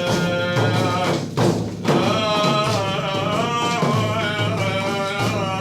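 A male voice sings a madih, an Islamic devotional praise song, in a long ornamented melodic line over a steady percussion beat.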